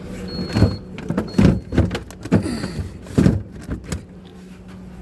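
Refrigerator doors and drawers being handled and shut: a string of knocks and sliding scrapes over about three seconds, with a few short high beeps near the start.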